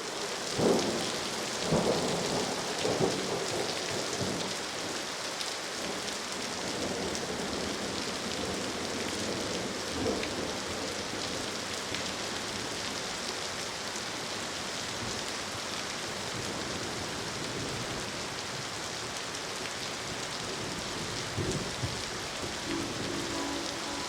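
Steady heavy rain with several sharp thunder cracks, clustered in the first few seconds and again around ten seconds and near the end. Just before the end, a distant train horn begins to sound a low, steady chord.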